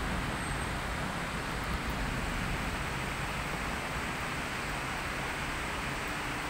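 Heavy rain falling in a steady downpour, an even hiss with no thunder claps.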